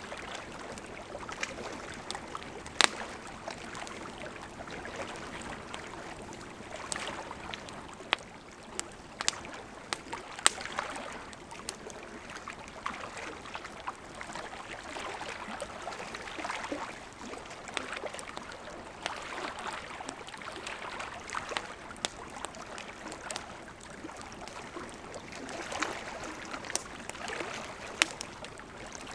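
Campfire of burning wood crackling: a steady hiss of flame with frequent sharp pops and snaps, a few of them louder.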